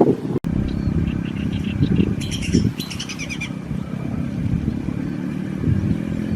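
A bird gives a quick run of high chirping notes for about a second in the middle, over a steady low rumble.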